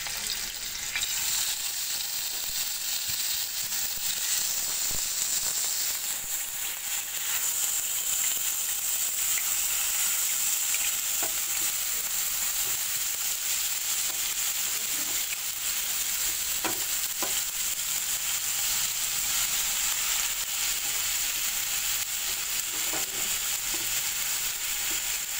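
Skewered chicken tikka pieces shallow-frying in oil in a nonstick tawa pan over low heat: a steady sizzle that fills out after several seconds as more skewers go into the oil. A few light taps come through the sizzle.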